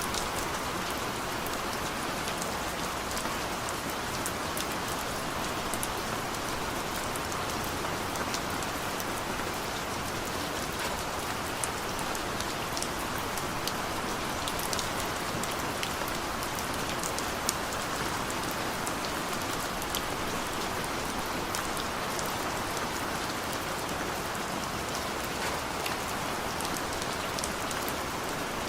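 Steady rain falling on surfaces, an even hiss with many small drips and drop clicks throughout.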